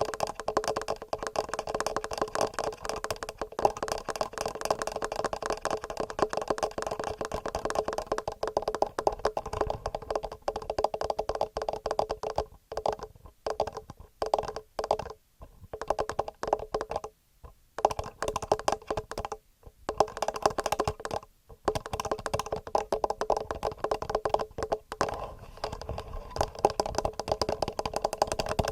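Fast, rhythmic fingernail tapping on a TASCAM portable recorder and its built-in microphones: a dense run of quick clicks, each carrying a hollow ringing tone, broken by a few brief pauses about halfway through.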